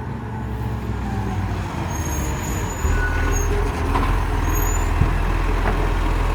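Recycling truck's engine running with a steady low hum, getting louder about three seconds in.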